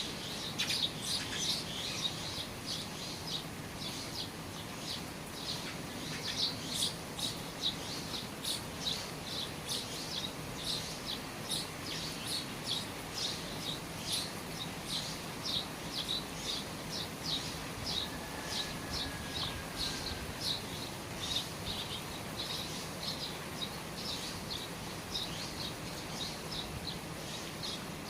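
Small birds chirping quickly and without a break, about two or three short chirps a second, over the steady hiss of rain falling at the eaves.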